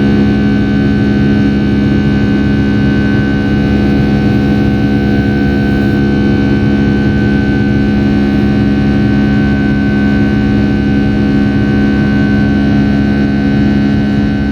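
Boeing 757-200's Rolls-Royce RB211 turbofan at takeoff thrust, heard from inside the cabin: a loud, steady drone with a low rumble and a high fan whine.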